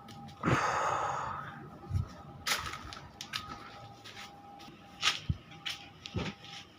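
Household handling noises: a brief rustling swish about half a second in, then scattered light clicks and knocks, over a faint steady hum.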